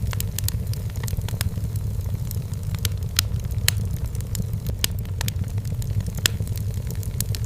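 Wood fire burning in a fireplace: a steady low rumble of the flames with sharp, irregular crackles and pops from the burning firewood.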